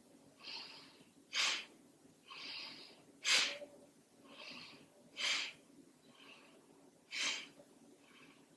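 A woman breathing in time with a side-to-side twist: a softer breath alternating with a short, louder one, four louder breaths about two seconds apart.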